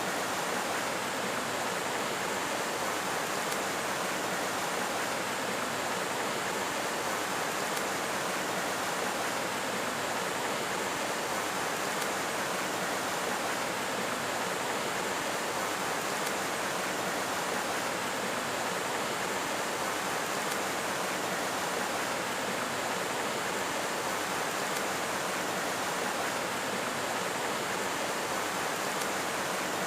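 Steady rushing of a flowing stream, even and unbroken.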